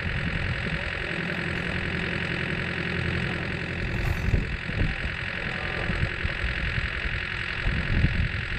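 A vehicle engine running steadily, with no change in speed.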